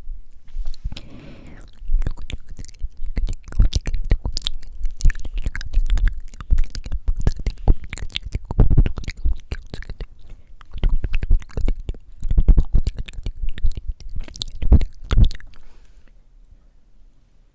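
Wet mouth sounds very close to the microphone: rapid tongue clicks and lip smacks crackling in quick dense runs, after a short breath about a second in, dying away near the end.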